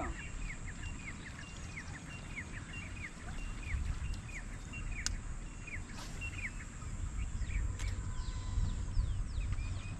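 A bird calling a short falling chirp over and over, about twice a second, over a low outdoor rumble, with a couple of sharp ticks midway.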